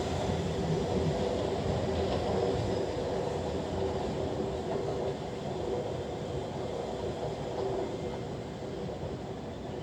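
Electric multiple-unit train moving through the station, a steady rumble with a humming tone that slowly grows fainter.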